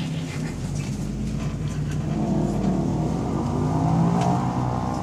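Double-decker bus engine with an exhaust leak, heard from inside the bus. The engine note rises as the bus accelerates, highest about four seconds in.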